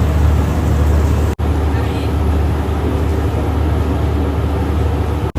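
Steady low drone of a boat's engine running, with a constant rushing noise over it. The sound cuts out abruptly for a moment about a second and a half in and again near the end.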